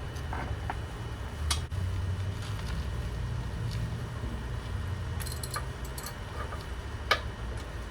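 Hand tools clinking against the car's steel suspension and hub parts: a few sharp metallic clicks, the loudest about a second and a half in and again near the end, with fainter ticks between, over a steady low rumble.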